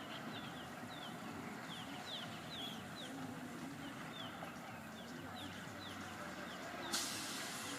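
Birds chirping: short, high, falling chirps repeating two or three times a second over steady background noise. A sudden sharp hiss starts about seven seconds in.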